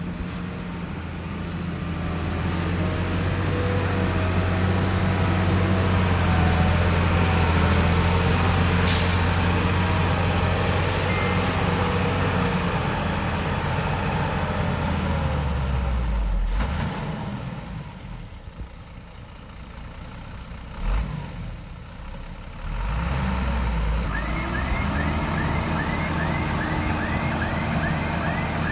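Diesel engines of heavy earthmoving machinery running, steady and loud for the first half, then dropping away before picking up again about two-thirds of the way through. A short, sharp hiss of air comes about nine seconds in, and a run of short, evenly repeated high chirps near the end.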